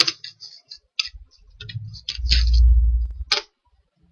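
Computer mouse clicks, a few sharp separate clicks, near the start, about a second in and just after three seconds. A low muffled rumble runs from about two to three seconds in.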